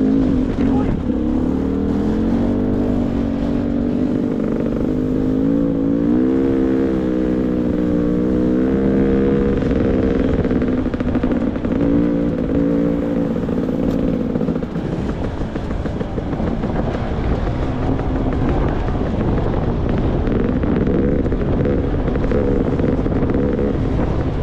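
Beta 300 RR two-stroke enduro motorcycle engine running on a trail ride, its revs rising and falling repeatedly with throttle in the first half, then holding steadier, with a brief easing of the throttle past the middle.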